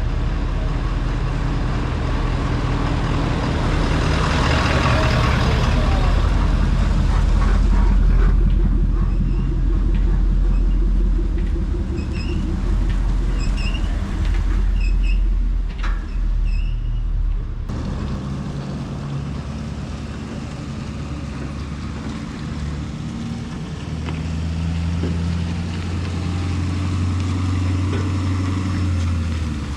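A heavy vehicle's engine running steadily, its low hum shifting in pitch now and then, with a few short high chirps around the middle.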